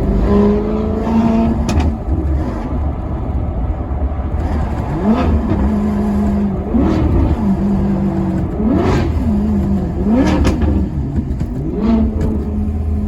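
Maserati Quattroporte Sport GT's V8 engine pulling with revs climbing at first, then running at a steady speed. It then gives five sharp throttle blips, one every second and a half to two seconds, each rev spike falling straight back to the steady note, as on blipped downshifts.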